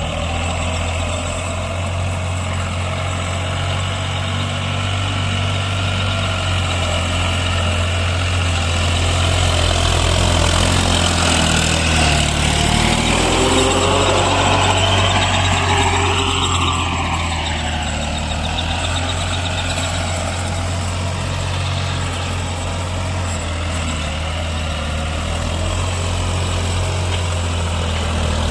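Case JX55T 4WD tractor's diesel engine running steadily while working a rotavator. It grows a little louder around the middle, its pitch sweeping up and then down as it comes past.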